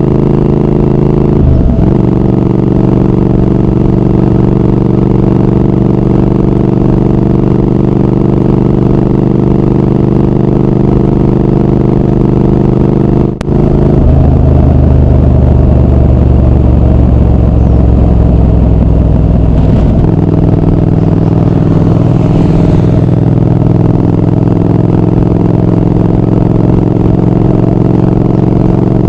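Triumph Speed Twin 1200's parallel-twin engine and exhaust running steadily under way. The note steps in pitch about a second and a half in, cuts out briefly near the middle and returns deeper, then shifts again about two-thirds of the way through.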